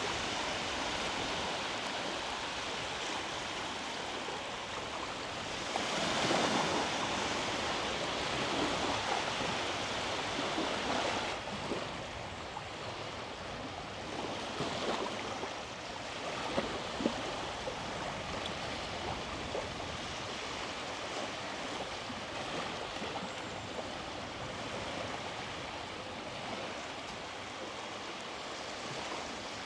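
Sea waves washing onto a beach, a steady hiss of surf that swells louder about six seconds in and eases off again, with a few faint ticks later on.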